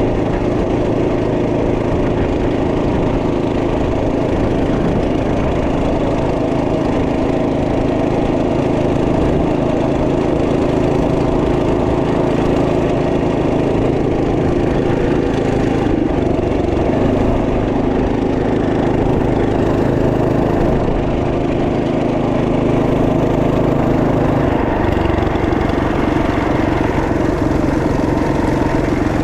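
Single-cylinder 212cc four-stroke engine of a Trail Master MB200 minibike running steadily, holding a fairly even speed with a slight change in pitch about three-quarters of the way through.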